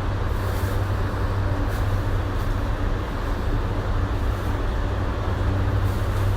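Steady low hum with a few faint steady tones inside a Tokyu 2020 series commuter train car. There is no rising or falling motor whine.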